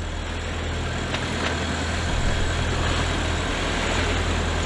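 Sailboat's inboard engine running steadily while the boat motors, a constant low drone with a steady hiss over it.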